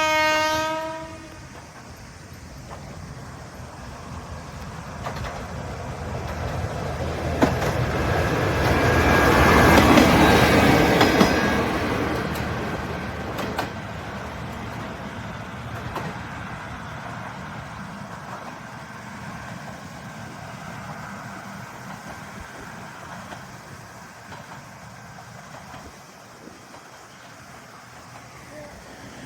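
A single short horn blast from an Akechi Railway diesel railcar, then the railcar running past. Its engine and wheel noise builds to a peak about ten seconds in, with a few clacks over rail joints, and slowly fades away.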